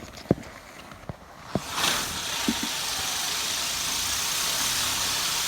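A few sharp cracks, then about two seconds in a small firework ignites and sprays sparks with a loud, steady hiss that holds to the end.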